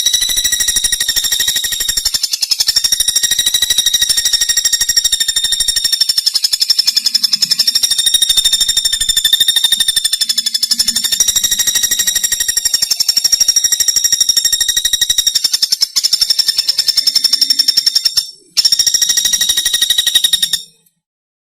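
Pelatuk bawang woodpecker giving a long, fast rattling trill of rapid, evenly spaced high-pitched pulses, with two brief breaks near the end before it stops abruptly.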